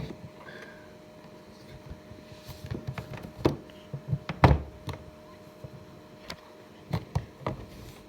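Beko DLTP81151W tumble dryer running: a steady hum with irregular knocks and thumps, the loudest about halfway through.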